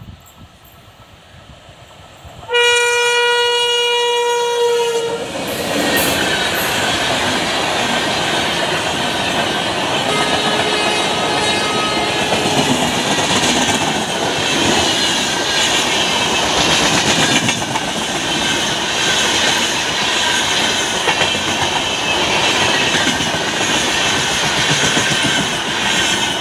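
A WAP-7 electric locomotive sounds one loud air-horn blast of about two and a half seconds as it closes in at speed. Its express coaches then rush close past with a loud, steady clatter of wheels on the rails.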